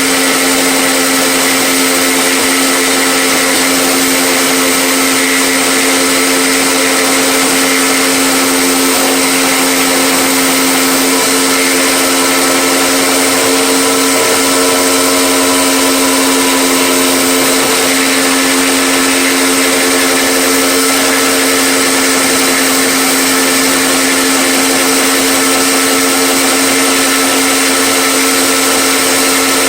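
Electric power tool motor running steadily without a break, a constant whine over a broad hiss with no change in load.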